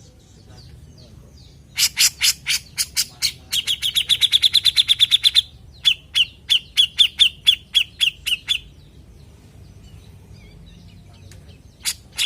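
Cucak jenggot (grey-cheeked bulbul) calling. A burst of sharp chattering notes begins about two seconds in and runs into a fast rattling trill, then slower evenly repeated notes. A new burst of chatter starts near the end.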